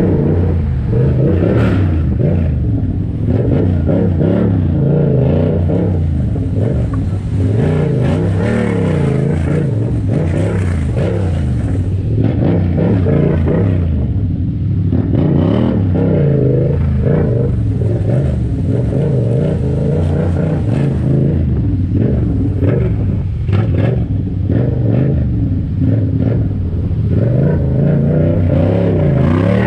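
Yamaha MT motorcycle engine running and revving at low speed, its pitch rising and falling again and again, with road noise.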